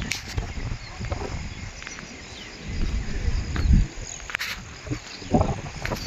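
Outdoor ambience: uneven gusts of wind rumbling on the microphone, a couple of sharp knocks from the phone being handled, and faint insect chirping.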